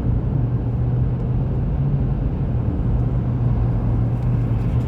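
Steady cabin noise of a car driving at road speed: a constant low hum under an even rush of road noise.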